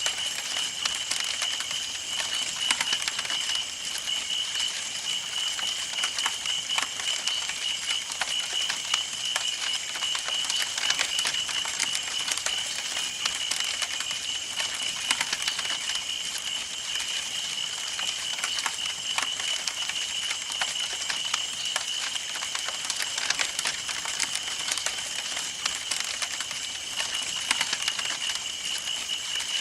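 Campfire burning, wood crackling and popping in a dense, irregular stream of small snaps. Under it runs a steady high-pitched tone that fades somewhat through the middle and comes back near the end.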